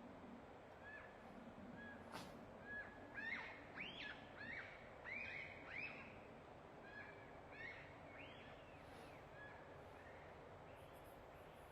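Birds chirping faintly: a string of short, arching chirps, busiest in the middle, over a soft steady hiss. A single sharp click about two seconds in.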